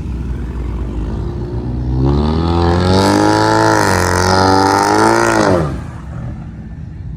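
Car engine revved up. The note climbs for about a second, is held high for about two and a half seconds, then drops away suddenly as the throttle is released.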